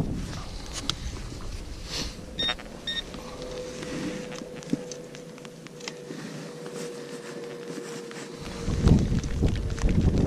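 XP Deus metal detector giving two short high beeps about two and a half seconds in, among scattered clicks and knocks. A faint steady tone follows, and wind buffets the microphone near the end.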